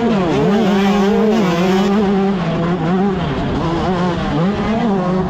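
A 125cc two-stroke motocross bike's single-cylinder engine running hard at high revs, its pitch dropping and climbing again twice as the throttle is rolled off and opened.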